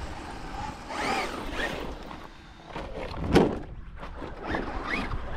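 Electric motor of a radio-controlled truck whining up and down in short revs, with a sharp knock a little past halfway.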